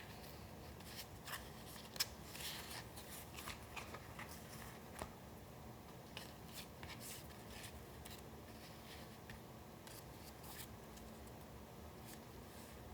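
Paper being handled for a collage: short faint rustles and crinkles with a sharp tap about two seconds in, busiest in the first five seconds, then only a few scattered ticks.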